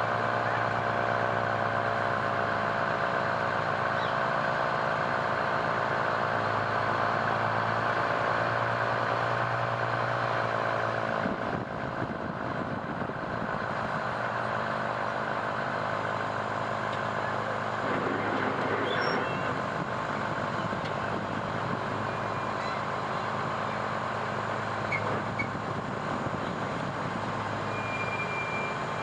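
Fire truck engine running steadily. Its pitch slowly sinks over the first ten seconds or so, then it settles into a rougher, steadier sound.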